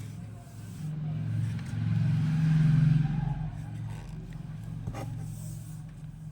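A low engine hum from a motor vehicle swells to its loudest about three seconds in, then falls back to a steady drone, with a single click about five seconds in.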